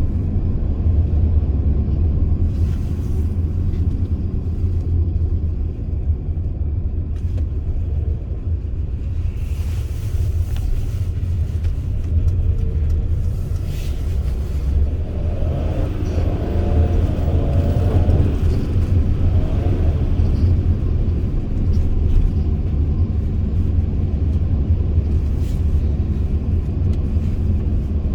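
Mercedes Sprinter van with a V6 engine driving, giving a steady low rumble of engine and road noise.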